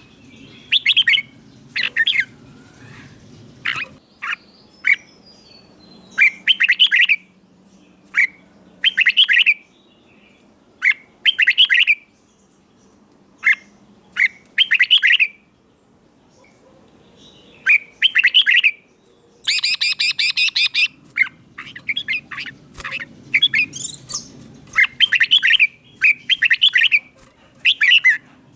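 Red-whiskered bulbul singing: short, loud whistled phrases repeated every second or two with brief pauses between them, and a harsher, busier burst about twenty seconds in.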